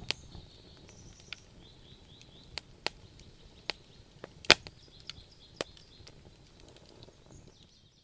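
Wood fire crackling: a handful of sharp, irregular pops over a low, steady hiss of burning logs, the loudest pop about four and a half seconds in.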